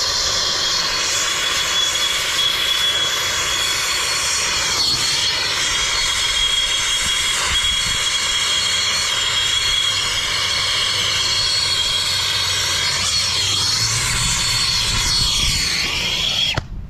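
Turbo torch flame burning steadily with a loud rushing hiss and a faint whistle, then shut off suddenly near the end.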